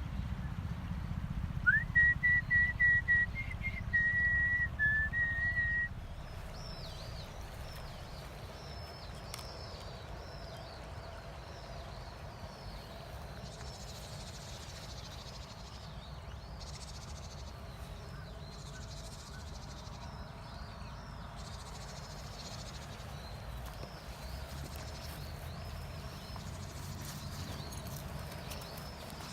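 A high whistle, held and wavering slightly, for about four seconds near the start; then faint, short high chirps like small birds, repeated over a steady low outdoor rumble.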